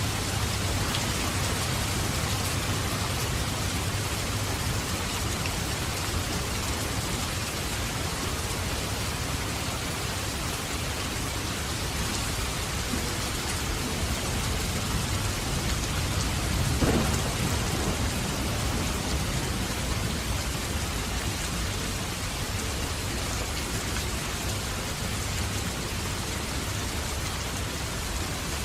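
Steady heavy rain falling on surfaces, with a low rumble of thunder underneath. A louder roll of thunder stands out about two-thirds of the way through.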